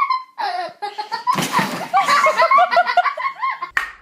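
People laughing: a breathy outburst about a second and a half in, then rapid repeated giggling pulses.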